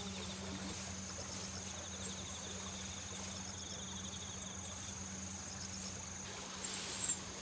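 Insects chirping in rapid pulsed trills with a steady high buzz, over a steady low hum. A brief louder rustle comes near the end.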